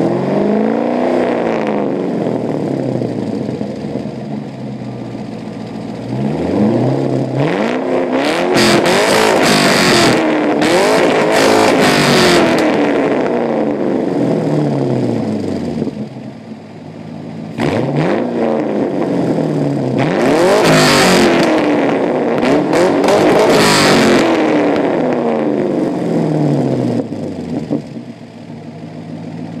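2005 Pontiac GTO's LS2 V8, breathing through a K&N intake and a Kooks muffler-delete exhaust, being revved repeatedly. A short rev comes at the start, then two long runs of revs rise and fall several times with crackles at the peaks. The engine settles back to idle between the runs and near the end.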